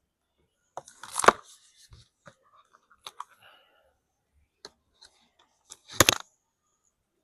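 Small objects being handled on a workbench: scattered clicks and rustles, with two louder sharp clatters, one about a second in and one about six seconds in.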